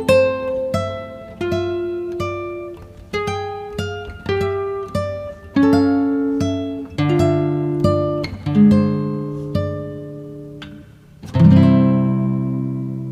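Background music: a slow acoustic guitar piece of plucked notes and chords, ending on a final chord that rings out near the end.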